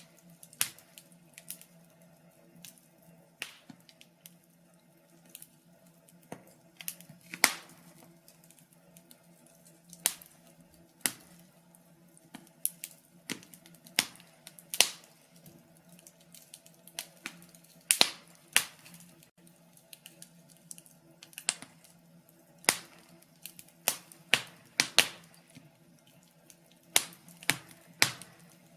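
Wood fire crackling in a fireplace: irregular sharp pops and snaps, sometimes several close together and sometimes a second or two apart, over a faint steady low hum.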